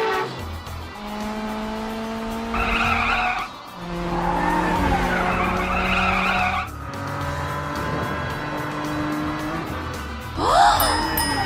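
Cartoon sound track: background music of held notes, with car sound effects of screeching, skidding tyres over it in two stretches in the middle and a quick swooping effect near the end.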